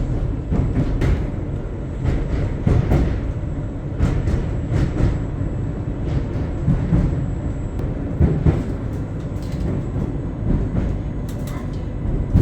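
Island Line Class 484 electric train running, heard from inside the carriage: a steady low rumble with frequent irregular knocks and rattles from the wheels and the car body.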